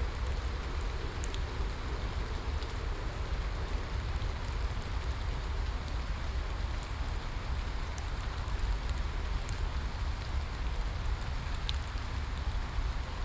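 Steady rain falling, an even hiss over a low rumble, with scattered sharp ticks of single drops striking close by.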